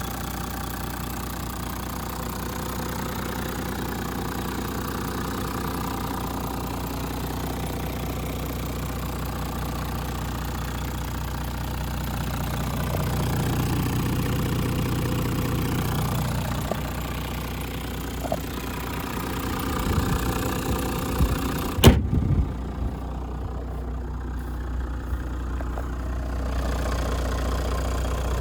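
Toyota Land Cruiser 100 Series 4.2-litre turbo-diesel straight-six idling steadily. Near the end come a few knocks and one sharp bang, after which the sound is muffled for a few seconds.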